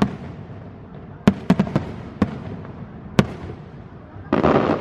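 Aerial fireworks going off: about six sharp bangs spread over three seconds, then a short burst of dense rushing noise near the end.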